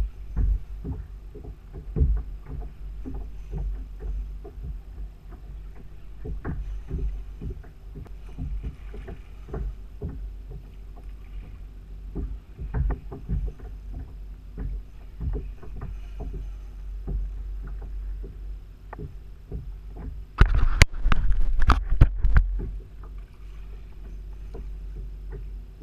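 Knocking and bumping on a fishing kayak: irregular light knocks over a low steady rumble, with a burst of loud knocks about twenty seconds in.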